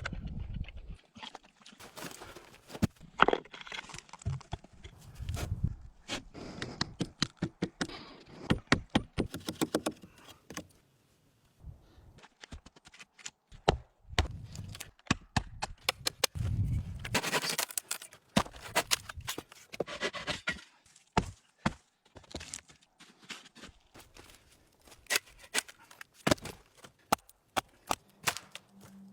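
Irregular knocks, thunks and scrapes, with many sharp clicks coming in quick runs and a few short pauses.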